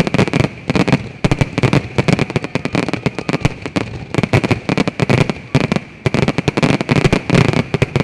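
Fireworks going off in a dense barrage: rapid overlapping bangs and crackles, several a second, over a steady high crackling hiss.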